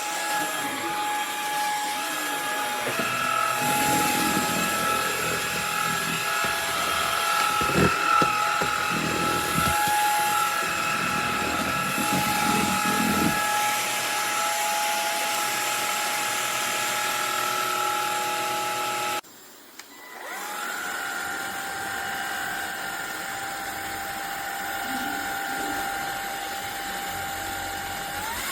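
Cordless stick vacuum's brushless motor running with a steady high whine, with an uneven lower rumble in the first half. About two-thirds of the way in it cuts out briefly, then spins back up with a rising whine and settles into a steady tone again.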